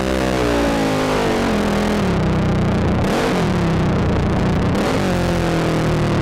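ATV engine running, its revs falling off over the first two seconds, then rising and dropping again twice.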